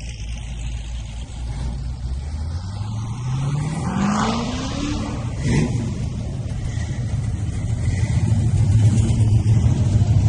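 Car engine accelerating, its pitch rising over about three seconds, then a deep engine rumble that builds louder toward the end.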